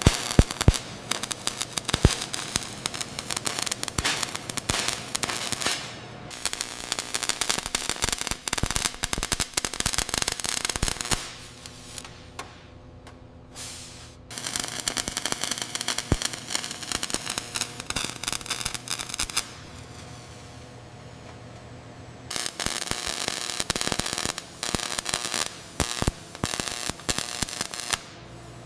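Dense, irregular crackling in three long bursts, with a low steady hum in the pauses between them.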